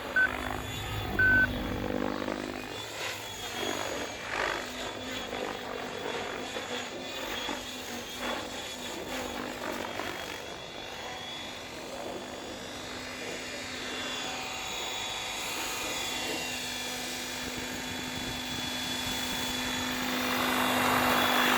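Electric Logo 700 RC helicopter flying aerobatics: the rotor and motor whine sweeps up and down in pitch as it manoeuvres and gets louder near the end. Two short electronic beeps sound in the first second and a half.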